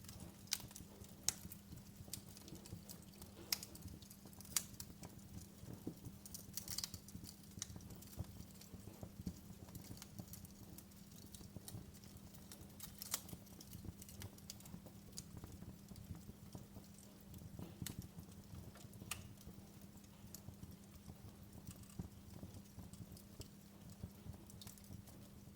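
Wood fire crackling in a fireplace: irregular sharp pops and snaps, a few louder ones among many small ticks, over a faint low steady hum.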